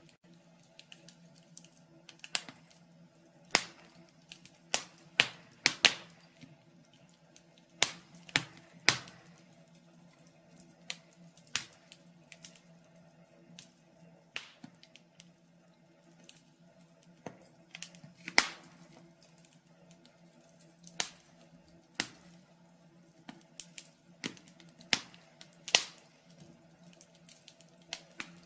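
Fire in a fireplace crackling: sharp pops at uneven intervals, about one a second, over a faint steady hum.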